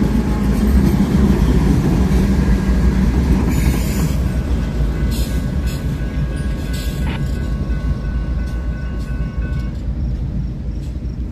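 A train rolling past: a steady rumble of railcars with sharp clicks over the rails. A thin wheel squeal sounds through the middle stretch, and the rumble eases slightly near the end.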